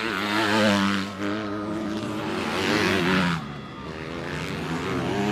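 250cc motocross bikes racing on a dirt track, engines revving up and down as the riders work the throttle. The bikes are loudest about half a second in and again around three seconds, drop back, then rise again near the end.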